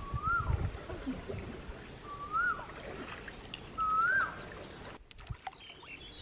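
A bird calls three times, about two seconds apart, each call the same short whistle that rises and then drops. Under the calls there is low sloshing of shallow stream water being waded through.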